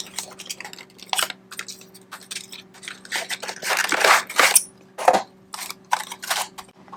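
Packaging rustling and crinkling in irregular bursts as a boxed die-cast model airplane is pulled out of its box and wrapping.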